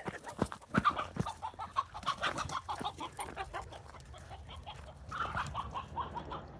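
Chickens clucking in repeated bursts of agitated calls, set off by being chased by a dog. A quick run of steps sounds in the first second or so.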